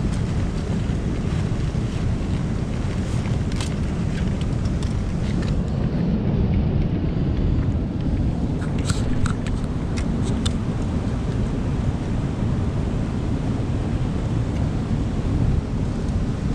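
Steady low rumble of wind buffeting an outdoor camera microphone, with a few faint clicks and ticks scattered over it.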